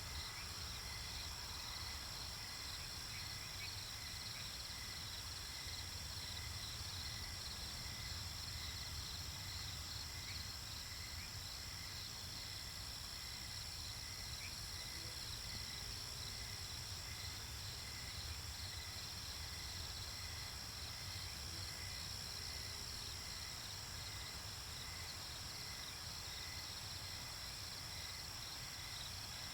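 Night-time nature ambience of crickets chirping steadily in rapid repeated pulses, over a low continuous rumble.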